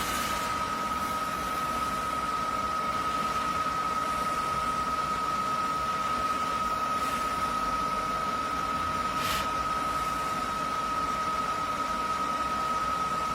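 eufy Omni C20 robot vacuum running: a steady motor and fan hum with a constant high whine, and one faint click about nine seconds in.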